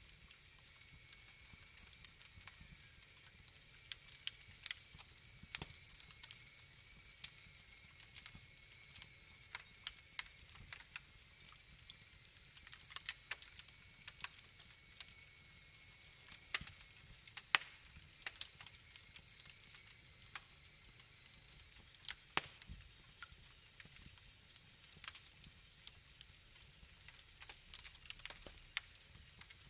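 Wood fire crackling: irregular sharp pops and snaps, a few a second, over a soft steady hiss.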